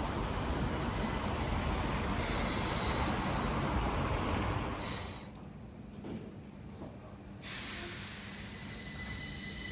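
Stockholm Metro train running, with a low rumble and loud bursts of high hissing. It goes quieter about halfway through, then the hissing starts again.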